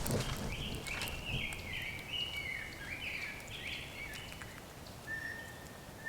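Wild bird calling: a quick run of about ten harsh, short calls, each stepping down in pitch, over about three and a half seconds, then one short, steady whistled note near the end.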